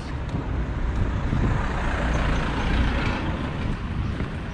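A motor vehicle driving past close by, its engine and tyre noise swelling to a peak two to three seconds in and then fading.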